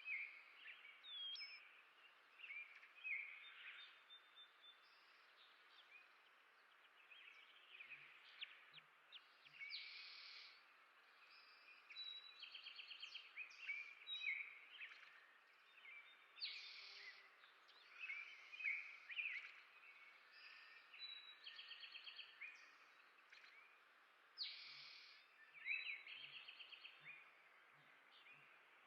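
Small songbirds chirping and calling, faint, with short chirps throughout and rapid trills of repeated notes recurring every few seconds.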